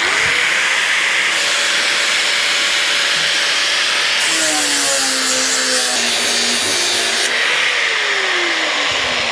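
Grinder cutting along the brazed seam of a motorcycle fuel tank to split it in two. It starts abruptly and runs steadily, its motor pitch dipping and wavering as the disc bites under load about halfway through.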